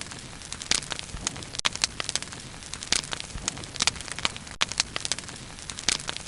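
Bonfire crackling: irregular sharp pops and snaps, several a second, over a steady low hiss of burning.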